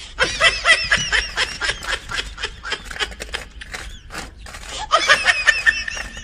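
A person laughing in two bursts, near the start and again about five seconds in, over repeated sharp taps of a hammer chipping at concrete.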